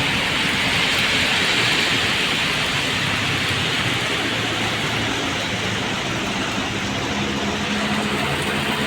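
Steady rain mixed with road traffic on a wet street, with a vehicle's engine hum coming in near the end.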